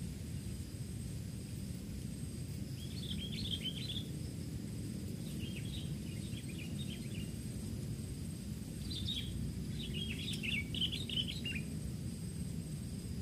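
A songbird gives quick chattering calls in three short bursts, over a steady low outdoor rumble and a faint steady high whine.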